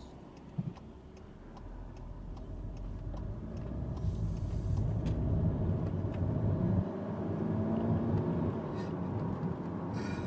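Cupra hatchback's engine and road noise heard from inside the cabin, a low rumble building steadily louder as the car accelerates, with a single knock about half a second in.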